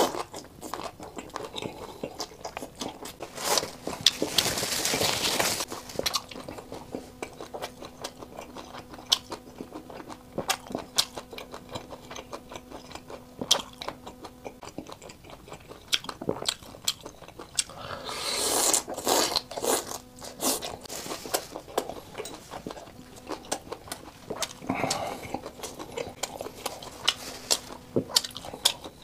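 Close-up chewing and biting of shrimp pulled off bamboo skewers from spicy chili-oil broth, made up of wet smacking mouth clicks and soft crunches. There are louder, noisier stretches of biting around four and nineteen seconds in.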